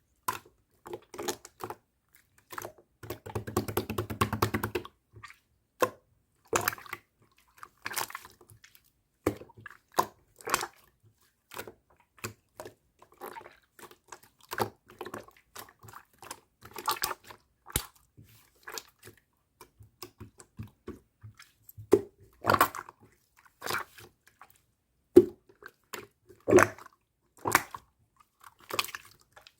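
Pearl slime being squished and pressed by hand, giving irregular wet clicks and pops, with a quick run of small crackling pops about three to five seconds in.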